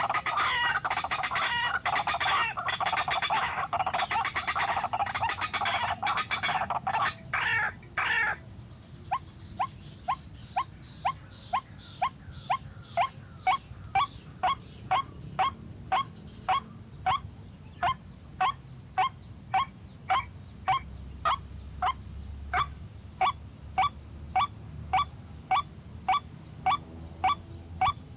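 White-breasted waterhen calling: a loud, raucous jumble of croaking calls for about the first eight seconds, then a steady run of short single notes, about two a second.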